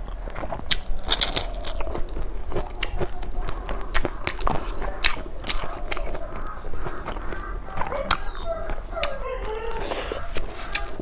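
A person eating close to the microphone, chewing with many sharp mouth clicks and smacks.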